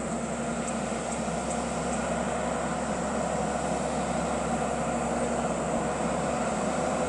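Volvo FH16 550 truck's 16-litre six-cylinder diesel engine droning steadily as it crawls up a steep climb under a heavy load.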